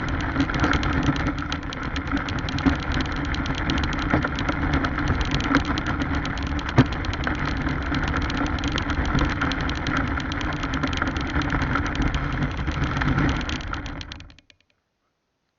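Vintage radio-controlled car driving, heard through an action camera mounted on it: steady motor and drivetrain noise with road rumble, a sharp knock about seven seconds in, then the sound cuts off abruptly near the end.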